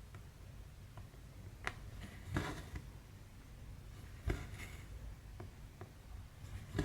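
Hand cross-stitching: a needle pushed through and pulled out of 14-count cross-stitch fabric, giving several small sharp clicks and brief scratchy rasps of thread being drawn through.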